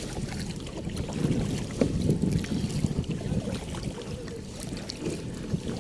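Water splashing and lapping around a kayak, with wind buffeting the microphone as an uneven rumble.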